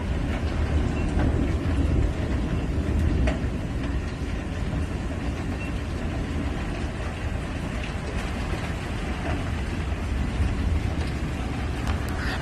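Hailstorm: hail and rain falling in a steady roar with a deep low rumble, and now and then a sharper tick of a hailstone striking.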